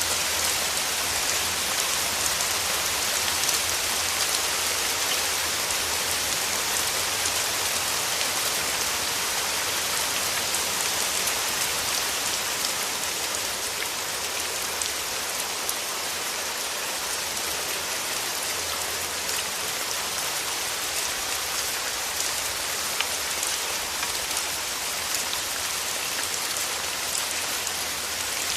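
Steady rain falling: a constant dense hiss with the patter of individual drops striking.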